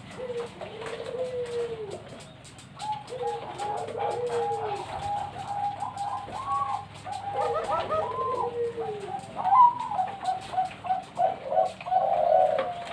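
Several zebra doves (perkutut) cooing: low arched coos repeat about every second and a half, and from about three seconds in they are overlapped by a faster string of short, higher notes.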